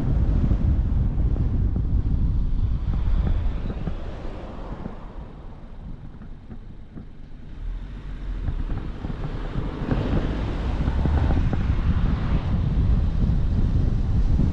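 Wind buffeting the microphone with a low rumble. It eases off for a few seconds in the middle and then picks up again.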